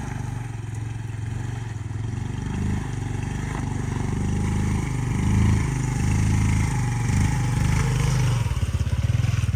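Yamaha PG-1 motorbike's small single-cylinder four-stroke engine running under way, with road and wind noise. The engine note changes about eight and a half seconds in.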